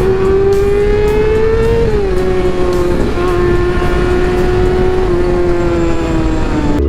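Motorcycle engine running at steady, fairly high revs while riding, with wind noise under it. The pitch climbs a little, drops about two seconds in, then eases down slowly before cutting off abruptly near the end.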